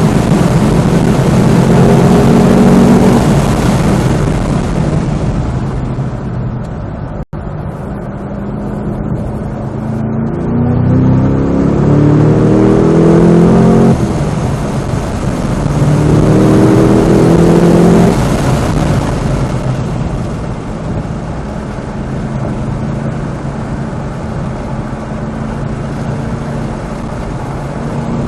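Supercharged 6.2-litre V8 of a manual Cadillac CT5-V Blackwing driven hard on track. It pulls at high revs, backs off, then climbs in pitch through the gears, with an upshift about halfway. After another climb it lifts and runs lower through the last third, then picks up again at the end.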